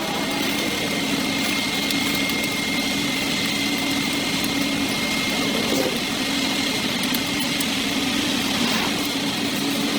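A small engine running steadily at an even speed, with a thin high whine over a constant hum.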